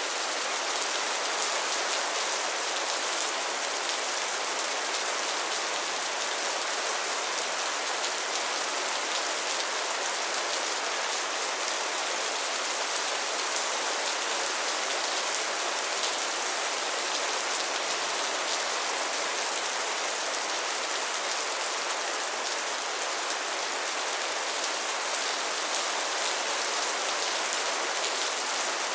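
Steady rain falling on a surface, a dense even hiss of many drops with no let-up.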